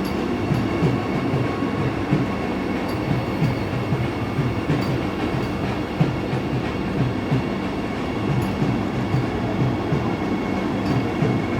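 Train running on the track: a steady rumble with quick, repeated low thumps and a faint steady whine.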